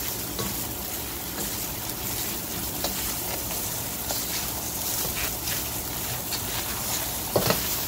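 Egg fried rice sizzling in a steel pan as it is stirred with a spatula, with scattered light scrapes and a sharper knock near the end.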